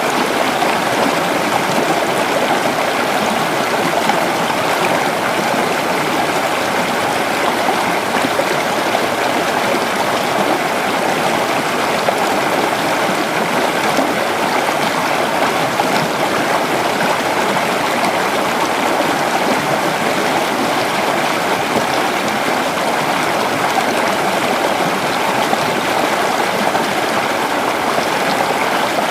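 Creek water running and burbling steadily over stones, a continuous rushing with no change in strength.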